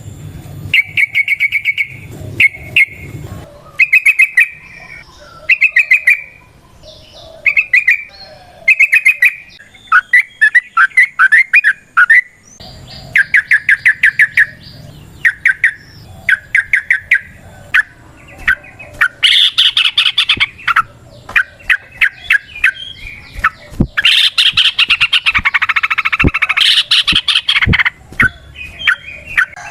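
Yellow-vented bulbul (trucukan) singing in repeated bursts of fast chattering notes with short pauses between, with louder, harsher stretches about two-thirds of the way in and near the end.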